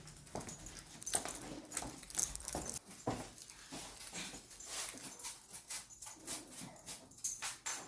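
Pet dogs moving about a small room: a string of irregular light clicks and rustles, with faint dog sounds among them.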